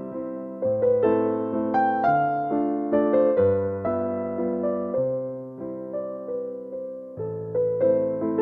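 Slow piano music: notes and chords struck and left to die away, over a bass note that changes every second or two.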